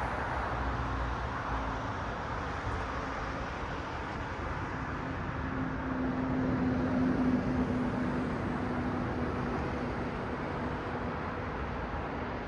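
City road traffic with cars passing: a steady rush of tyre and engine noise. One vehicle's low engine hum swells to its loudest a little past the middle, then fades.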